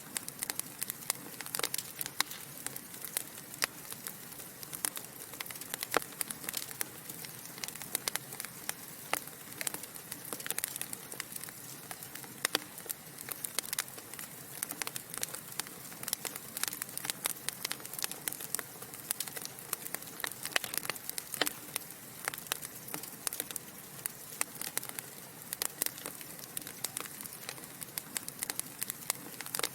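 Log fire in a fireplace crackling and popping: irregular sharp snaps, many each second, over a steady soft hiss of burning.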